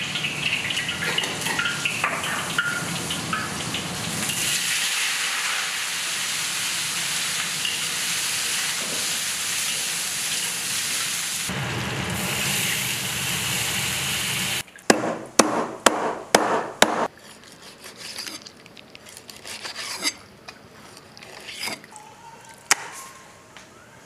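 Meat and red chilies sizzling in hot oil in a wok, a steady hiss for about fifteen seconds. It cuts off suddenly and is followed by a series of sharp knocks and clatter.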